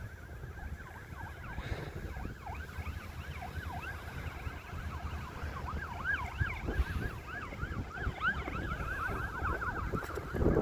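A flock of small birds chirping and chattering, many short overlapping calls at once, over a low rumble of wind on the microphone.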